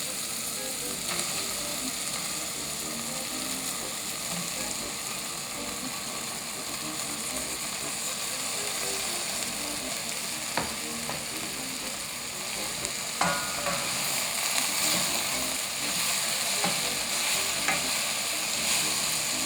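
Broccoli and onions sizzling steadily in hot olive oil in a pan, with a few sharp clicks of a utensil against the pan as the vegetables are stirred.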